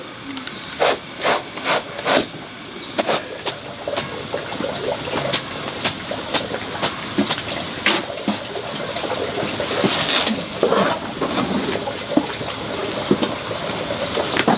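Running or splashing water with a series of sharp clicks and knocks, several in quick succession in the first few seconds.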